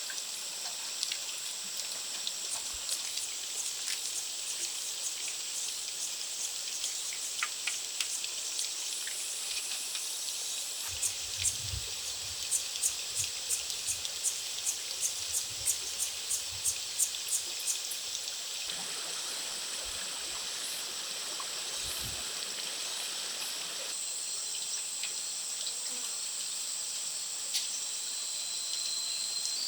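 Steady high-pitched insect buzz over a trickling-water hiss in a rainforest, with a run of about fifteen evenly spaced knocks, a little over two a second, in the middle.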